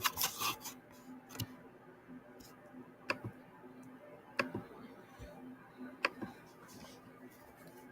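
Scattered short clicks and ticks: a quick cluster at the start, then single clicks a second or two apart, over faint room noise with a steady low hum.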